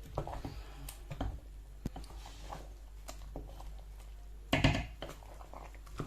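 Light kitchen handling noises: scattered small clicks and knocks of utensils and a cooking pot, with one louder clatter about four and a half seconds in, over a steady low hum.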